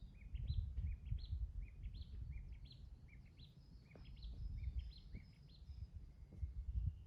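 A songbird singing a long, fast run of short, high, hooked chirping notes, about three a second, that stops about six seconds in. An uneven low rumble runs underneath.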